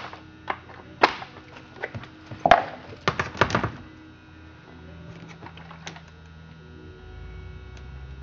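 Handling knocks and clunks on a Husqvarna 385 XP chainsaw: one sharp knock about a second in, a louder one at two and a half seconds, and a quick cluster around three seconds. After that only a faint steady hum remains.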